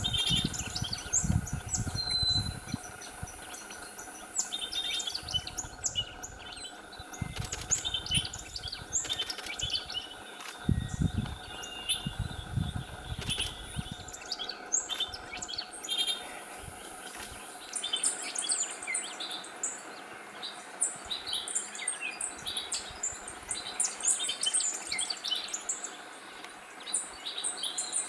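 Several birds chirping and calling in quick short notes, more densely in the second half, with low rumbling bursts during roughly the first half.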